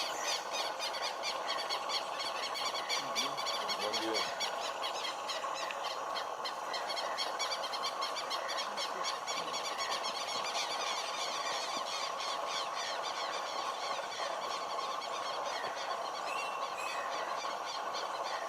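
Steady dense outdoor chorus of rapid, high chirring and buzzing calls, unchanging throughout, typical of insects and birds in tropical roadside vegetation.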